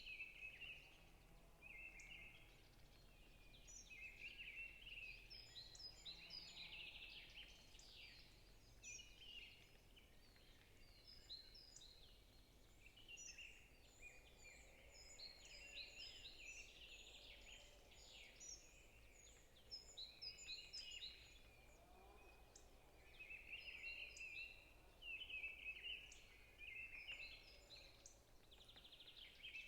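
Faint forest bird chorus: many small birds chirping and trilling at once in short, overlapping high calls, with no pause across the stretch.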